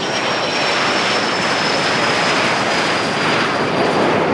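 Fixed-wing aircraft passing close, its engines loud and steady, with a high thin whine that slowly falls in pitch.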